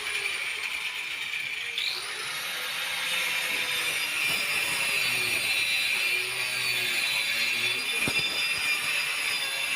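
A power tool running steadily, a continuous high whine with a faint lower tone that slowly wavers in pitch.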